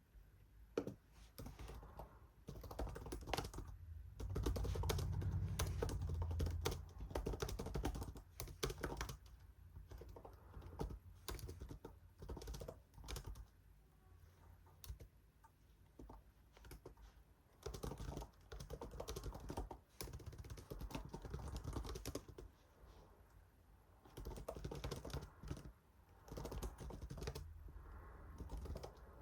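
Typing on a computer keyboard in bursts of rapid key clicks, with short pauses between them.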